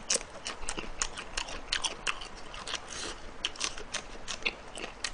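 A person chewing food right at the microphone, with many sharp, irregular mouth clicks and smacks.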